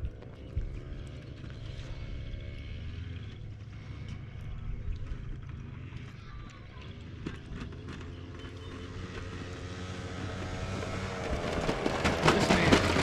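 Moped engine running on a dirt track, its pitch rising and falling with the throttle, getting louder over the last couple of seconds as it comes closer.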